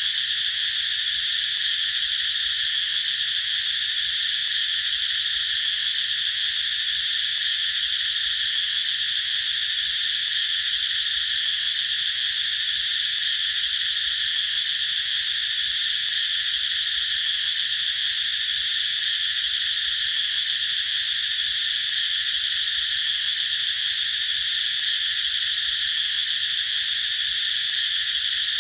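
Cicadas singing in chorus: a steady, unbroken high-pitched buzz.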